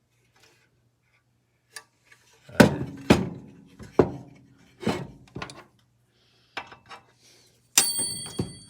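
Handling and knocking of metal tool parts during disassembly of a cordless miter saw: a run of sharp knocks and thunks, then near the end a louder metallic clang that rings briefly, as something is dropped.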